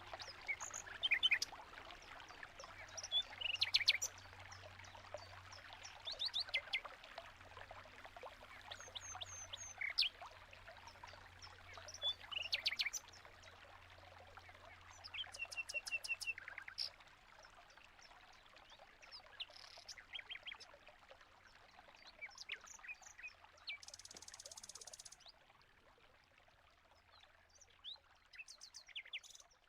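Finches in an aviary chirping and calling: many short, high chirps and quick rattling call trains, with the sound of trickling water beneath them during the first half and a faint low hum.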